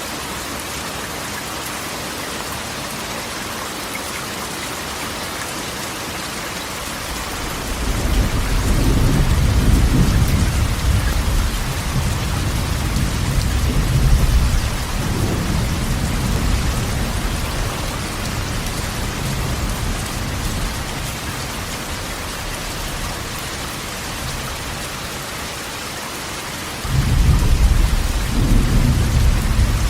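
Steady heavy rain drumming on a corrugated metal roof, with rolls of thunder: a long rumble builds about a quarter of the way in and fades, and a second rumble breaks in sharply near the end.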